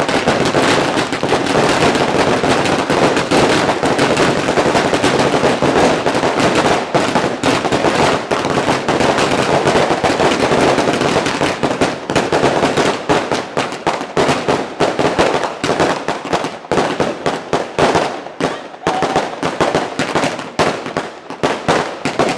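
New Year's Eve fireworks and firecrackers going off in a dense, continuous crackling barrage of rapid bangs. About halfway through, the barrage thins out into separate sharp bangs with short gaps between them.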